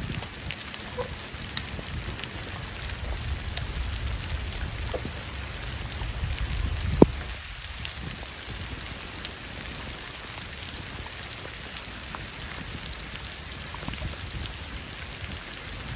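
Steady rain falling, with many scattered individual drops ticking close by and a single sharp click about seven seconds in.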